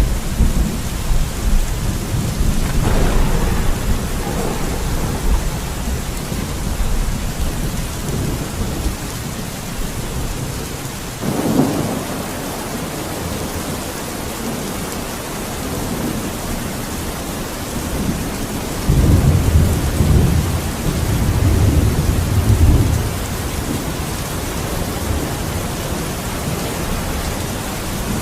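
Steady rain with rolling thunder. The thunder rumbles several times: a sudden crack-and-rumble about eleven seconds in, then a longer deep rumble past the middle.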